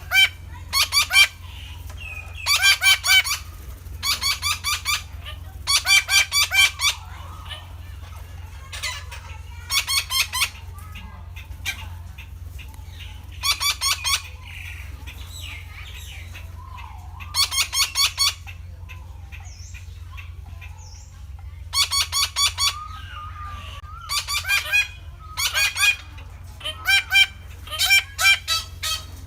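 Red-breasted parakeet (Psittacula alexandri) giving harsh calls in short bursts of rapid notes, a burst every second or two, over a steady low hum.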